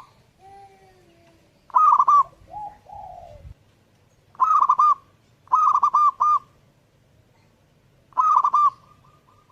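Zebra dove cooing: four bursts of rapid, rolling coo notes, each under a second long, with a few fainter, lower calls between the first bursts.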